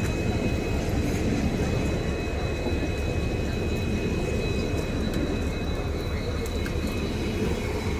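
Passenger train pulling out, its coaches rolling past close by with a steady low rumble, and a thin steady high whine above it.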